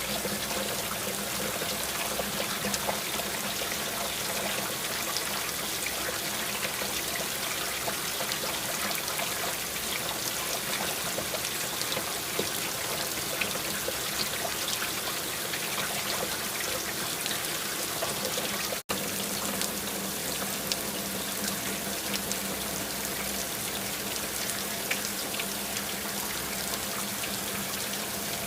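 Steady rain with close drips and trickling water. The sound cuts out completely for an instant about two-thirds of the way through.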